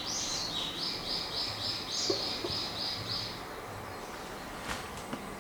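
A bird singing a quick run of repeated, similar high notes, several a second, with a couple of rising swoops, over steady background noise. A single sharp click comes near the end.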